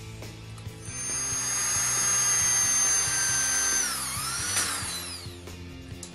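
Handheld electric drill running as it drills into the steel square-tube frame of a cage: a steady high whine that dips in pitch briefly as the bit bites, then winds down near the end. Background music plays throughout.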